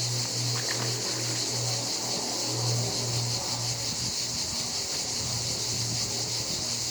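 Steady high-pitched chorus of insects, with a low hum pulsing two or three times a second underneath.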